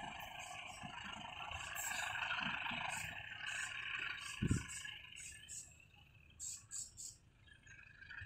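Passenger train running away from the station, its steady running noise fading out about five seconds in as it recedes. A single short low thump about halfway through.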